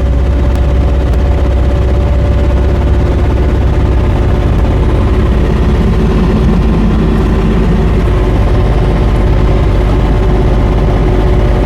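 A JoyT5 JT5350 3.5-ton mini excavator's diesel engine running under hydraulic load, with a steady hydraulic whine over the low engine rumble, as the machine is raised on its hydraulics and its upper structure swings round. The working sound grows heavier about halfway through, then settles.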